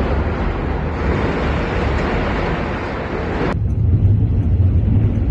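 Loud steady rushing noise, cut off abruptly about three and a half seconds in and replaced by a low steady rumble.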